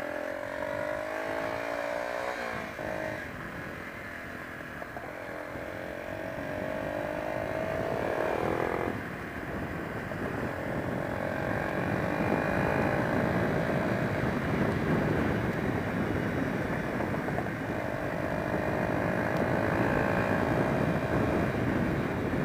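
Honda XR125 single-cylinder four-stroke motorcycle engine pulling through the gears while riding. Its pitch rises, then drops at gear changes about 3 and 9 seconds in, before holding steadier at cruising speed, over rushing wind noise that grows louder.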